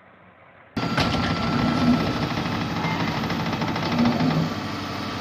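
A faint hiss, then under a second in a heavy engine cuts in and runs steadily and loudly, with a fast, even firing rhythm.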